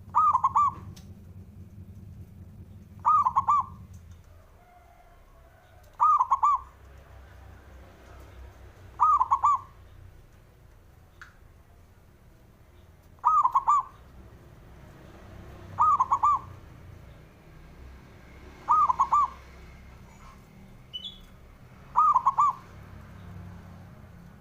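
Zebra dove (perkutut) cooing: a short burst of quick looping notes, repeated eight times at roughly three-second intervals.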